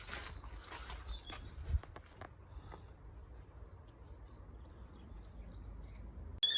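Outdoor background of low wind rumble on the microphone, with a few sharp clicks and knocks in the first two seconds and faint bird chirps in the middle. Near the end it cuts suddenly to a loud, steady high whistle.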